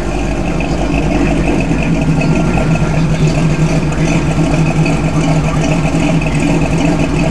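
Hot-rod engine idling with a steady, even exhaust note.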